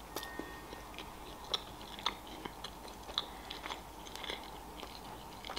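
A person chewing a flaky pastry with the mouth close to the microphone: soft, irregular mouth clicks and light crunches.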